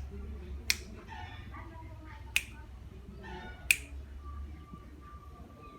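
Three sharp clicks, about a second and a half apart, with faint pitched sounds between them; a faint steady tone comes in about two thirds of the way through.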